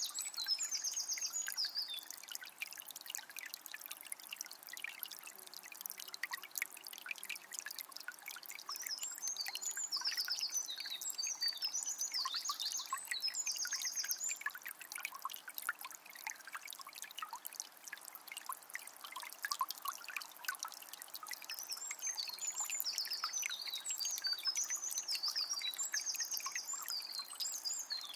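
Forest river trickling and babbling steadily, with a small bird singing high, quick chirping phrases in three bouts: at the start, in the middle and near the end.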